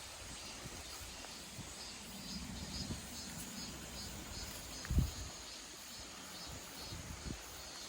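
Outdoor ambience with a calling insect's faint, regular high chirp, about two or three a second, over a low rumble. One thump comes about five seconds in.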